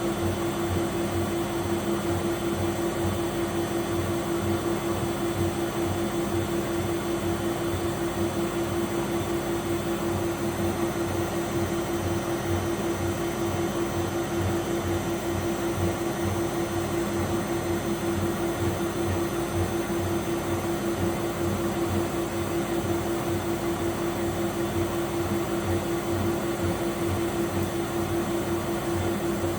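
Miele W761 washing machine running empty, its motor giving a steady whine over a low throb that pulses about twice a second.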